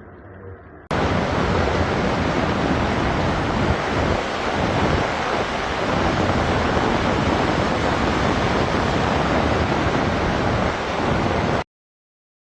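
Loud, steady rushing roar of fast-flowing floodwater, cutting in suddenly about a second in and stopping abruptly near the end.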